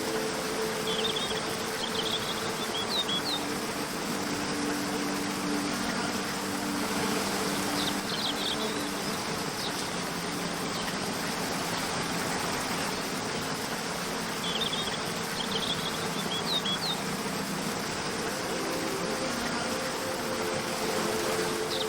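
Steady rush of a waterfall under soft background music of held, slowly changing notes. Short clusters of high bird chirps come back every several seconds.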